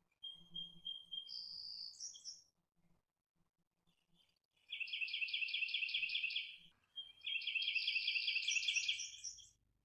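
A songbird singing: a short whistled phrase that steps up in pitch, then two long, fast trills of repeated high notes, each about two seconds.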